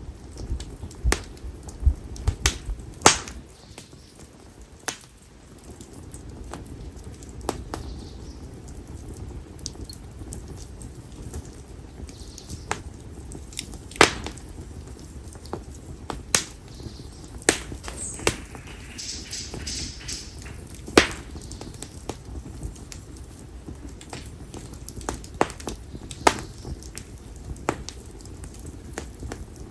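Konara oak firewood burning in an open fire, crackling with sharp pops at irregular intervals over a steady low rumble of flame. A brief hiss comes about two-thirds of the way through.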